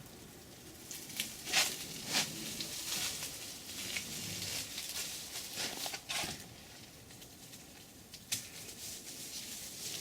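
Masking tape and masking paper being peeled off and handled after a racing stripe has been sprayed, heard as a series of short rustling, crackling pulls.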